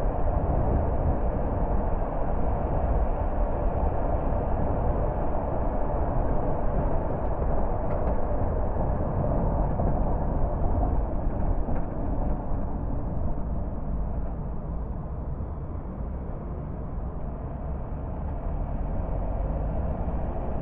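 Car driving along a road: a steady rumble of tyre and engine noise that eases somewhat past the middle and builds again near the end.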